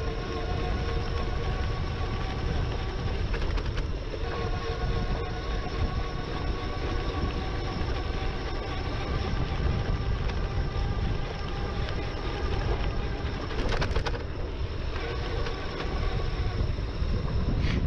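Wind rushing over the microphone of an e-bike under way, with a steady multi-tone whine from the electric drive motor that shifts slightly in pitch a couple of times.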